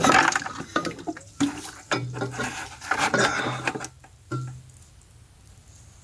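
Metal clanking and scraping, a quick run of knocks and clatter for about four seconds, then quieter.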